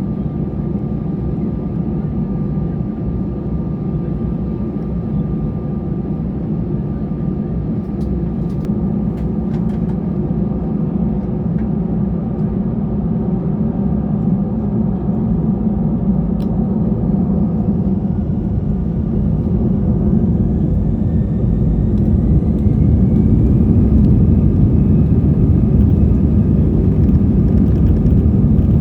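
Airbus A320 jet engines heard from inside the cabin: a steady low rumble that grows louder, with a whine rising in pitch about two-thirds of the way through as the engines spool up.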